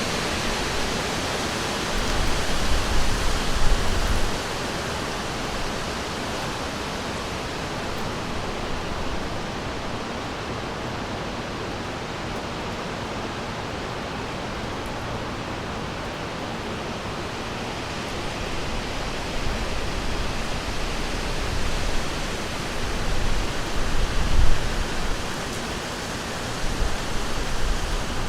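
Steady rushing of a flowing river, swelling louder with a deep rumble a few seconds in and again near the end.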